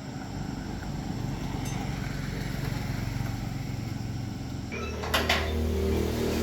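A small engine running with a fast, rough low pulsing. About four and a half seconds in, the sound changes to a steadier pitched hum, and a brief sharp hiss follows just after.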